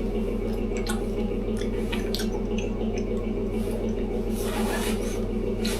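A steady low mechanical hum, like a motor or engine running, with scattered small clicks and a short rustle a little over four seconds in.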